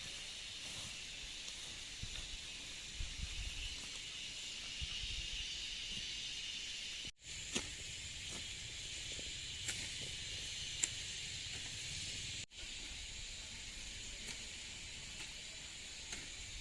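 Steady high-pitched outdoor hiss, with a few faint clicks and soft low thumps; it drops out briefly twice.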